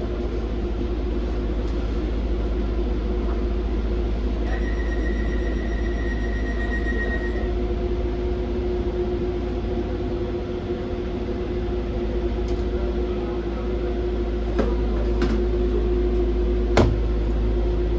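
Docklands Light Railway B92-stock train standing at a station platform with a steady electrical hum. A high electronic tone sounds for about three seconds a few seconds in, and a few sharp clunks come near the end.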